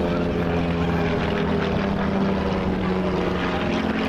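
Propeller aircraft engine droning steadily, its pitch shifting slightly near the end as the plane moves.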